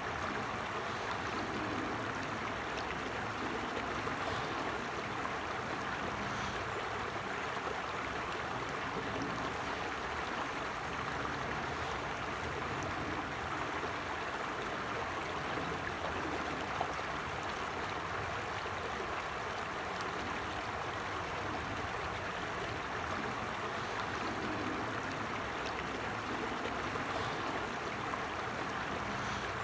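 Creek water flowing and splashing steadily over stones.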